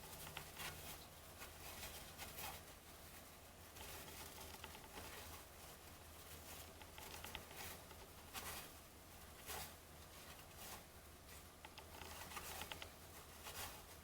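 Faint sliding and flicking of baseball trading cards being flipped through one at a time: scattered soft clicks and rustles over a steady low hum.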